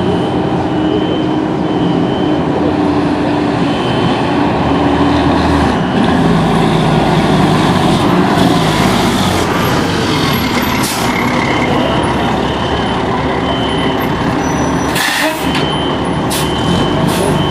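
Fire engine running loudly as it moves off, with a repeated short high beep. About fifteen seconds in comes a sharp hiss of air, typical of the truck's air brakes.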